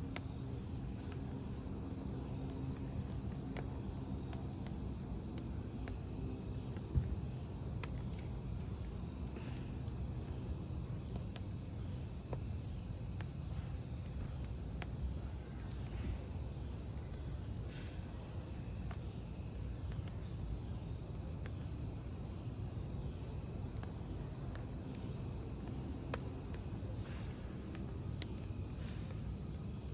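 Crickets chirping steadily, a constant high trill, over a crackling wood fire with scattered sharp pops from the burning logs, the loudest about seven seconds in.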